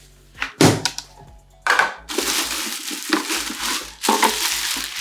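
Packaging being crumpled and crushed, a dense crackling that starts after a knock and a short rustle. A steady pulsing beat of background music runs underneath.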